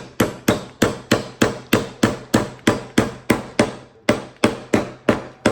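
Hammer driving a nail into a reclaimed-wood board, steady even strikes about three a second, stopping near the end.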